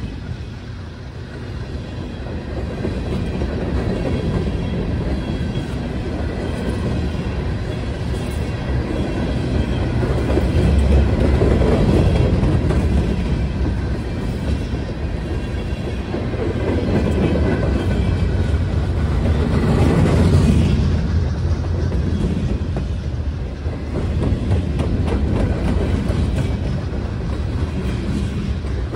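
Norfolk Southern freight train of covered hopper cars rolling past close by, steel wheels running on the rails in a continuous loud rumble. It swells louder about a third of the way in and again about two-thirds through.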